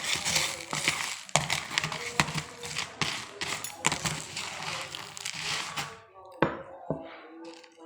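Crunchy packaged snacks being chewed close to the microphone, a dense crackling crunch full of sharp clicks that thins out about six seconds in, with two more single crunches near the end.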